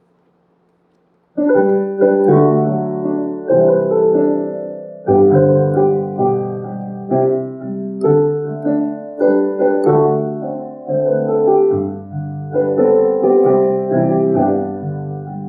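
Piano playing a slow hymn accompaniment in sustained chords, a new chord struck about every second, starting about a second and a half in after a moment of quiet.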